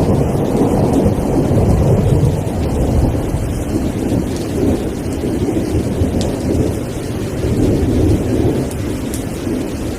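Steady rain with a deep low rumble underneath, easing slightly near the end, with a few light drop ticks on top.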